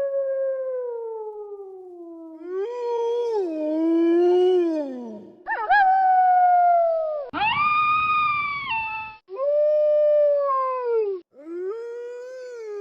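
Wolves howling: a string of long, drawn-out howls, each sliding down in pitch, with two voices overlapping at times. One harsher howl comes a little past the middle.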